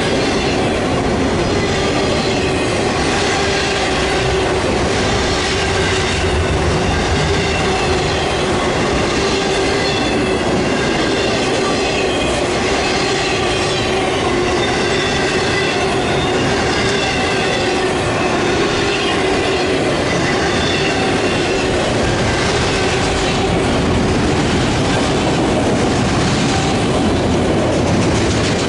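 CSX freight cars rolling past, loud and steady, with the wheels clicking over rail joints every second or two and a continuous high metallic ringing squeal from the wheels on the rail.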